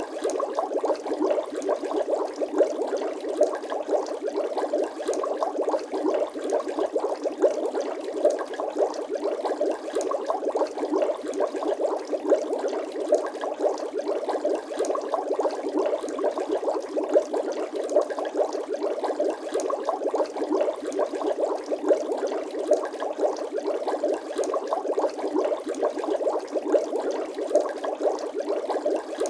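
Bubbling water sound effect: a steady, dense stream of small bubble blips and pops, thin with no bass.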